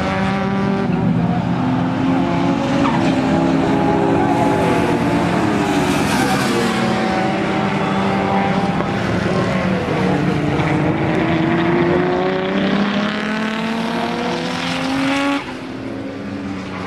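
Two Toyota Corollas, an AE86 with its 4A-GE twin-cam four-cylinder and a Corolla FX-GT race car, driven hard on track: their engine notes overlap, climbing as they accelerate and falling back at gear changes and on braking. The sound drops suddenly in level near the end.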